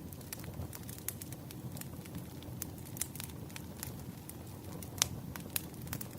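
Wood fire crackling: a steady low rumble of burning logs with scattered sharp pops, the loudest about five seconds in.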